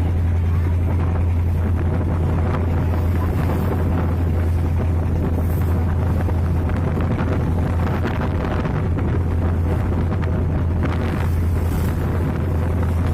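A boat's engine running steadily with a deep drone and a few steady tones above it, with wind buffeting the microphone.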